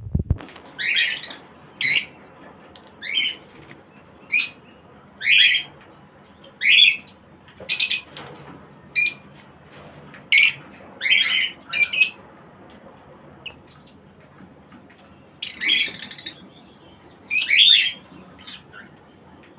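Lovebirds calling: a run of short, high-pitched squawks and chirps, about one a second, with a pause of a few seconds about two-thirds of the way through.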